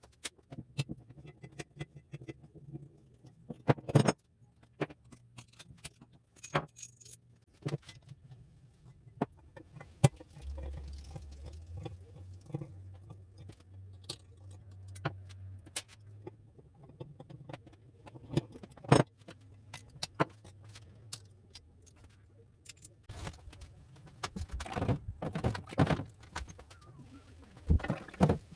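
Metal tools and parts clinking and knocking against each other in irregular single strikes, with a busier run of clatter near the end. A low steady hum runs through the middle for several seconds.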